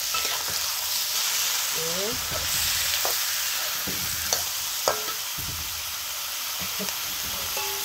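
Raw chicken pieces sizzling in hot oil in a wok as a metal spatula stirs them, scraping and knocking a few times against the pan.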